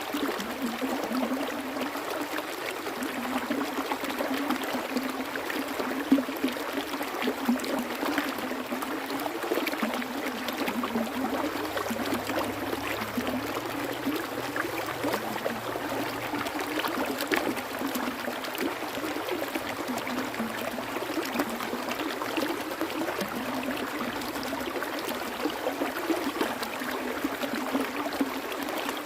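Water flowing steadily over rocks, a continuous rush with small irregular splashes and gurgles.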